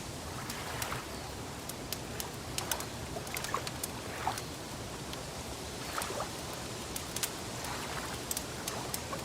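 Wood fire crackling, with scattered sharp pops at irregular moments, over a steady wash of water sound.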